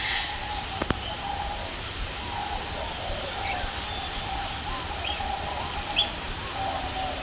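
Birds chirping: a few short, high calls scattered over a steady background hum, with a sharp click about a second in.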